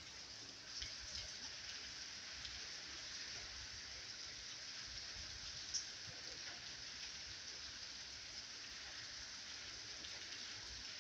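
Steady rain falling, a soft even hiss, with one sharp tick about six seconds in.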